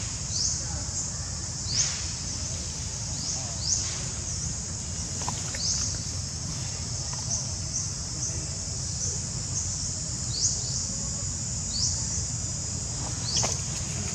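A steady, high-pitched insect drone, with short rising chirps repeating every second or two over a low rumble.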